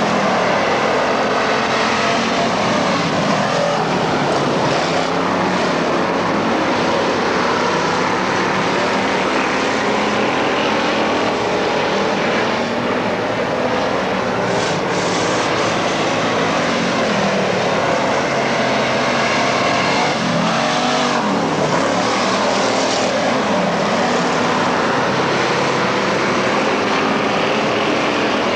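Race car engines running continuously in a pack, their pitch rising and falling as the cars throttle through the turns and pass by.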